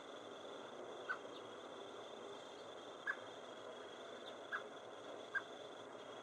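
Four short, sharp bird notes spaced a second or two apart, over a steady faint hiss.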